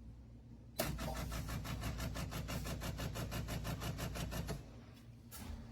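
De'Longhi Eletta Explore automatic espresso machine's pump starting up with a click about a second in, then running in rapid even pulses, about eight a second, for nearly four seconds before stopping, as the machine begins its cappuccino cycle with the milk frothing.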